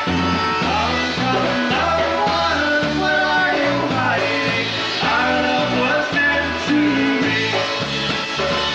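Live polka band playing, the bass alternating between two notes about twice a second in a steady oom-pah beat under the melody.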